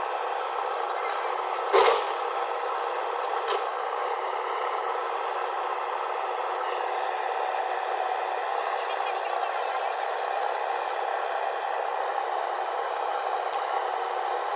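Machinery running steadily, with one sharp metallic clank about two seconds in and a couple of fainter clicks later.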